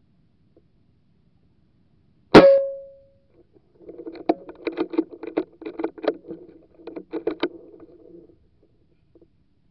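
A single sharp gunshot with a brief ringing tone after it, fired at waterfowl at long range. About a second and a half later come some four seconds of rapid, irregular clattering.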